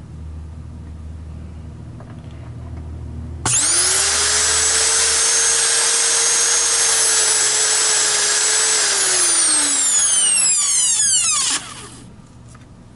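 Compressed air blasting into a Wessel-Werk EBK 340 power-head motor to clean its armature, the air spinning the motor up. A loud hiss starts suddenly about three and a half seconds in with a whine that rises and then holds steady; from about nine seconds the whine falls as the motor winds down, and the hiss cuts off suddenly near the end.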